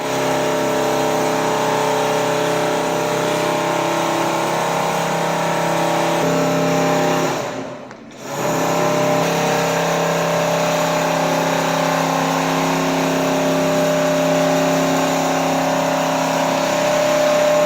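Richpeace single-head quilting machine running: a steady mechanical hum of several held tones that briefly drops away about eight seconds in.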